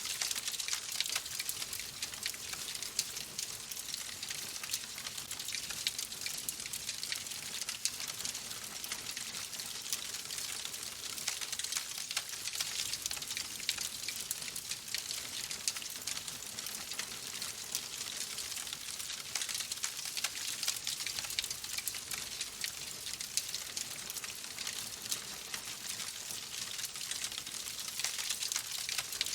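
Wood fire crackling in a fireplace: a steady hiss thick with small, quick pops.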